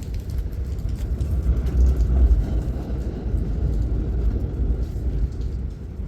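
A road vehicle passing, a low rumble that swells to its loudest about two seconds in and then eases off.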